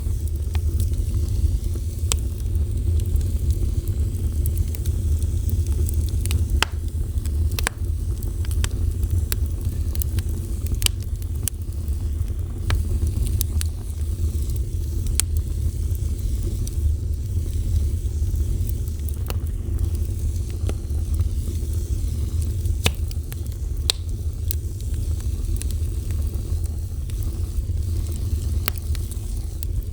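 Fire burning, with a steady low rumble under frequent, irregular sharp crackles and pops.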